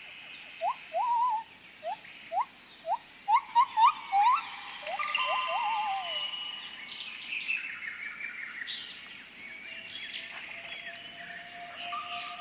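Birds calling: a run of short rising whistled notes, loudest about three to four seconds in, over higher chirps and twittering that carry on after the whistles stop about six seconds in.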